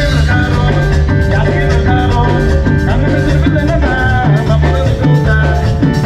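A cumbia band playing live, with a steady dance beat, heavy bass and melody instruments, heard through the camera's own microphone.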